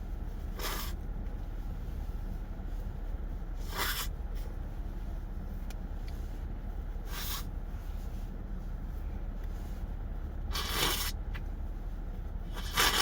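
Short rustling scrapes from handling fast food while eating, five in all, about every three seconds, over a steady low rumble.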